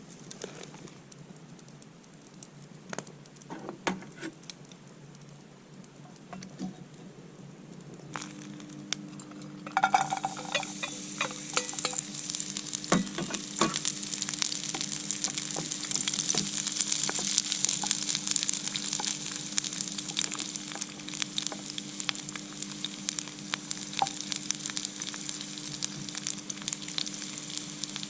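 Scattered light clicks and knocks of utensils, then about ten seconds in food goes into a hot pan over a wood fire and starts sizzling loudly and steadily, with clicks of stirring through it.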